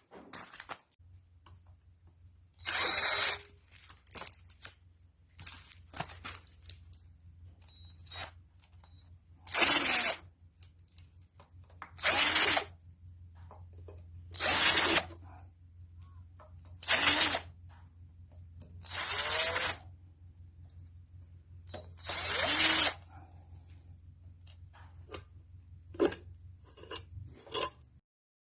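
A handheld power tool, such as a drill or driver, run in about seven short bursts a couple of seconds apart, its motor speeding up and slowing down each time, with small clicks between the bursts, typical of undoing fasteners while stripping down a Lister SR3 engine. A steady low hum runs underneath.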